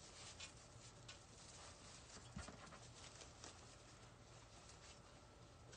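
Near silence: faint scattered ticks and rustles of craft materials being handled, one slightly stronger knock about two seconds in, over a low steady hum.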